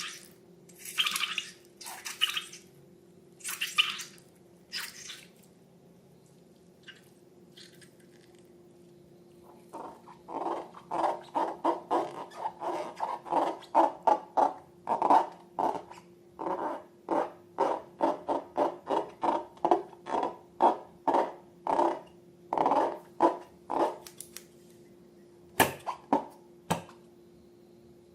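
Slime being squeezed and worked by hand: a few short rustly swishes in the first seconds, then from about ten seconds in a long run of wet squishes, about two a second, that stops a few seconds before the end. A faint steady hum runs underneath.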